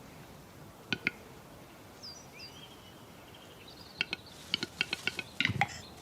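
Male capercaillie display call at the lek: a pair of sharp clicks about a second in, then from about four seconds a series of clicks speeding up and ending in a low pop. A small bird chirps faintly around two seconds in.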